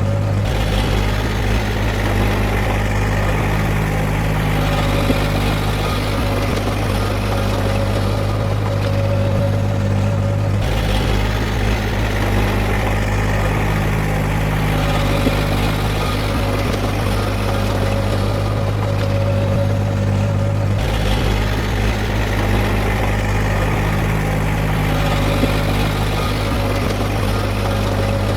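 Heavy diesel engine of earthmoving machinery running steadily, with abrupt changes in its sound about a third and two thirds of the way through.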